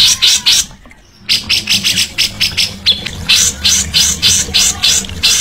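A songbird giving fast, harsh, scratchy notes in a rapid series, about three or four a second, with a short break about a second in.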